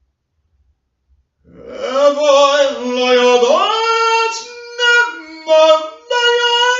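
Silence for about a second and a half, then a high voice sings long held notes without clear words, gliding up between some of them.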